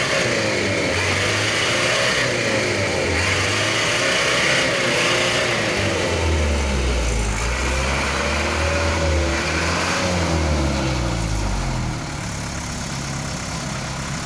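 Truck engine revving, its pitch rising and falling repeatedly under load, with a heavy low rumble in the middle. It drops to a quieter, steadier running about twelve seconds in.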